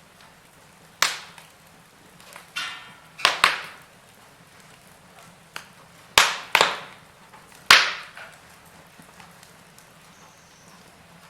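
Wood fire in a fireplace crackling, with several loud, sharp pops, some in quick pairs, and a brief hiss of escaping sap or steam just before one of them.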